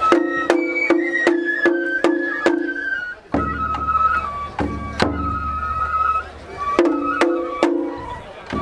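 Japanese festival music (matsuri-bayashi): a high bamboo flute playing a melody over sharp, regular percussion strikes, about two or three a second.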